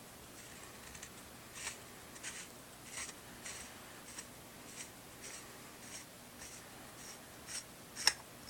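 Threaded pommel of a lightsaber hilt being unscrewed by hand: a run of soft scraping ticks about every half second as the threads turn, with a sharper click near the end.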